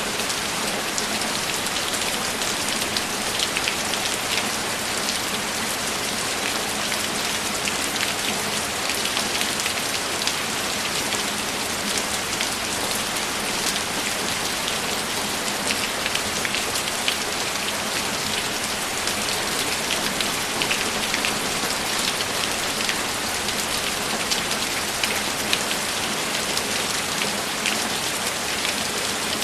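Steady rain falling, with many individual drops heard as small close ticks over an even hiss.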